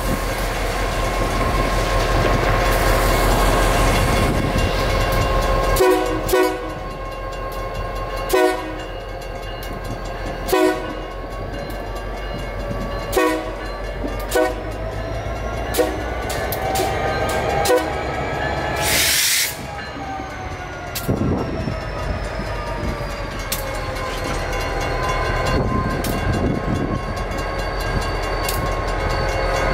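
Crossing signals' WCH mechanical bells ringing as a Union Pacific EMD GP40-2 diesel locomotive moves slowly through the crossing, its engine running. A train horn sounds, and there is a brief loud hiss about two-thirds of the way through.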